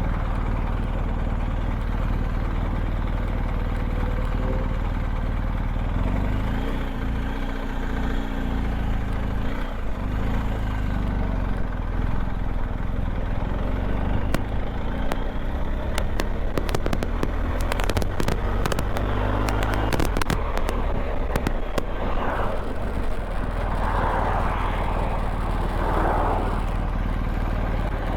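Riding noise from a BMW R1250GS Adventure: its boxer twin engine running under way, heard through a helmet chin-mounted camera with wind rushing over the microphone. From about halfway, a run of sharp crackling clicks lasts several seconds.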